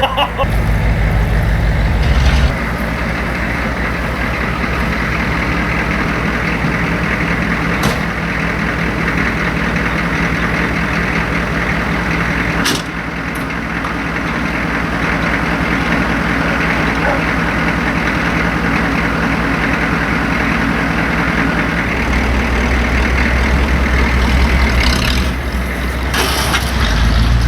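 A vehicle engine runs steadily while the vehicle is driven slowly. A few light clicks or knocks come partway through, and the engine note deepens and grows louder near the end.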